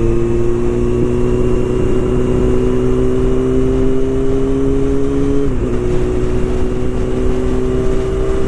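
Motorcycle engine under way, its note slowly rising as it picks up speed, then dropping suddenly at a gear change about five and a half seconds in, over a steady low rumble.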